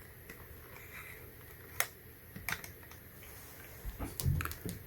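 A few scattered light clicks and taps from handling multimeter probes and small tools on a workbench, with a short cluster of clicks and a soft thump near the end.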